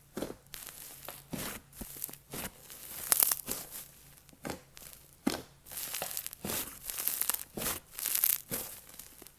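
Slime squeezed and pressed by hand, giving a series of irregular sizzling, crackling pops.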